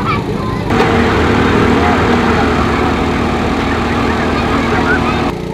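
Vehicle engine running at a steady speed. It starts abruptly about a second in and cuts off shortly before the end, with birds chirping around it.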